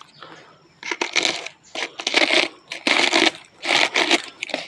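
Repeated crunching noises, one short burst roughly every second.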